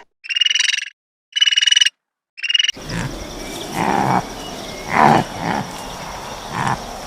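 Three short trilling animal calls, each about half a second long with silence between them. Then a different outdoor recording with steady background noise and a few lower calls.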